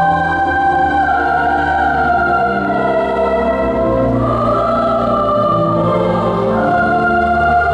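A mixed choir singing long, sustained chords, accompanied by pipe organ with a steady bass underneath. The harmony shifts about halfway through and again near the end.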